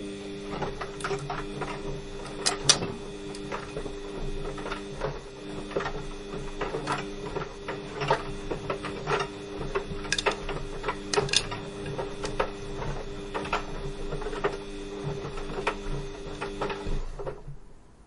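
Washing machine running: a steady motor hum of several held tones with irregular clicks and knocks throughout, the sharpest a little over two seconds in. It starts abruptly and cuts off about a second before the end.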